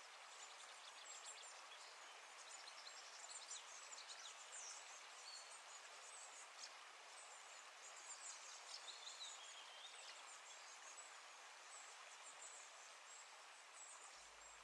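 Faint outdoor ambience: a steady soft hiss with many small, high-pitched bird chirps and calls scattered through it.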